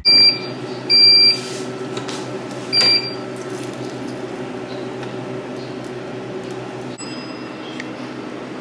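Three short electronic beeps, the second a little longer, over a steady mechanical hum.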